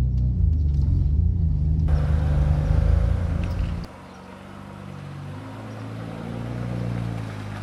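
Nissan Skyline GT-R engine running under way, a loud low drone whose pitch shifts a little as it drives. About four seconds in the sound drops abruptly to a much quieter, lower engine hum.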